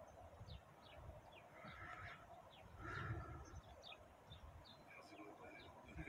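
Faint chirping of small birds: many short, quick chirps that slur downward. A low rumble swells briefly about three seconds in.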